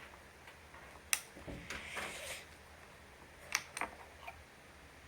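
Parts of a toy airplane kit being handled and pushed together while the tail fin is fitted: a sharp click about a second in, a short scraping, then a few more clicks near the end.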